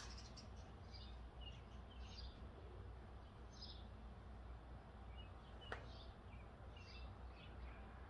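Faint songbird chirps, short and scattered, several a second, over a low steady background rumble, with one sharp click about two-thirds of the way through.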